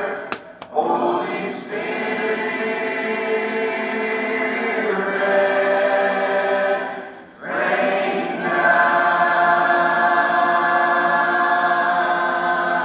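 A choir singing long held chords, broken briefly about half a second in and again around seven seconds.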